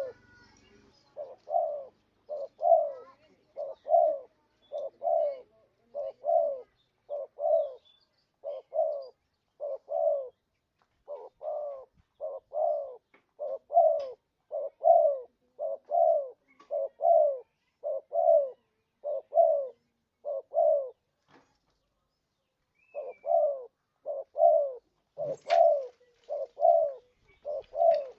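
Spotted dove cooing: a lure call made of short low coos repeated in a steady run, about one to two notes a second, with a brief pause about three quarters of the way through. A single sharp click comes near the end.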